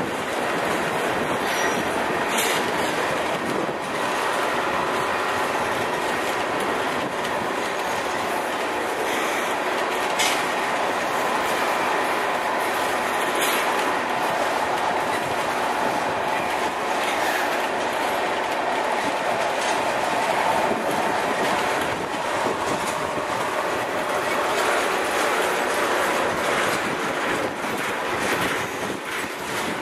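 Freight train of tank cars rolling past: a steady rumble and clickety-clack of steel wheels on the rails, with a few sharper clicks along the way.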